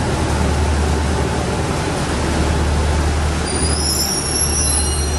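Regional train pulling out of the platform, running with a steady low hum over a wide rumble. About three and a half seconds in, a high-pitched squeal of train wheels on the rails joins in.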